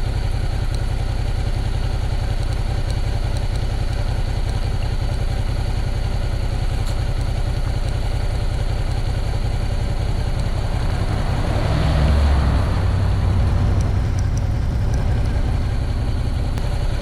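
Motorcycle engine running steadily while riding, with a low throbbing rumble that swells louder about twelve seconds in.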